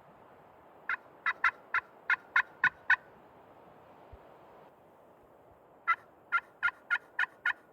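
Two runs of hen turkey yelps made on a turkey call, each seven or eight short sharp notes at about three a second, the second run starting about six seconds in. The hunter is calling to draw an answer from a gobbler.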